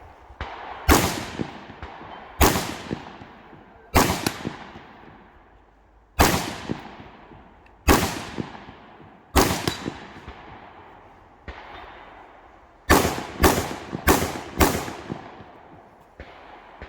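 Rifle shots with a long echoing tail after each: six single shots about a second and a half to two seconds apart, then a fast string of four shots about half a second apart near the end.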